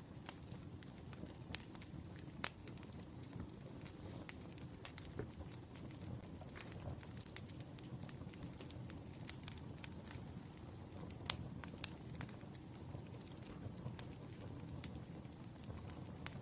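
Wood fire burning steadily, a low rumble with irregular crackles and a few sharper pops.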